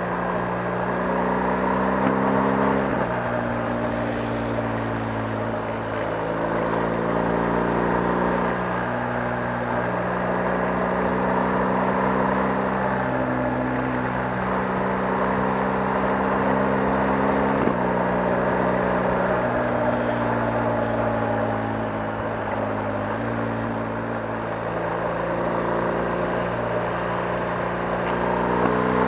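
BMW R 1250 GS motorcycle's boxer twin engine running under way, its pitch climbing and dropping back several times.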